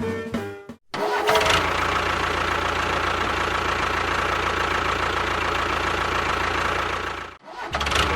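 Music cuts off in the first second; after a brief gap an engine runs steadily with a low, even hum, drops out for a moment near the end, then starts again.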